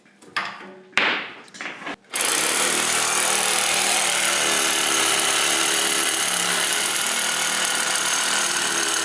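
A few knocks of tools on metal, then about two seconds in a power tool starts and runs loudly and steadily without letting up.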